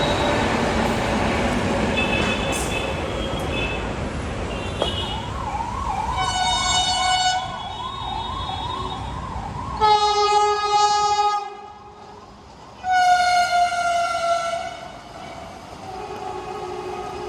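A passing train's rumble, easing off over the first few seconds, then a train horn sounding three blasts, the second and third the loudest, and a shorter, weaker note near the end. A wavering, siren-like tone sounds under the first blast.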